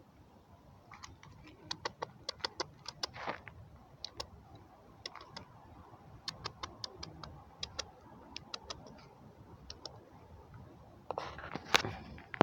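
A run of irregular sharp clicks and taps, several a second at their busiest, then a louder rustling clatter with one sharp knock near the end.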